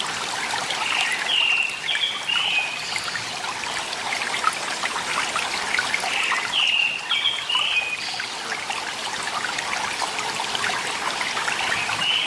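Clear valley stream trickling steadily. A bird's short phrase of chirps repeats about every five to six seconds over the water.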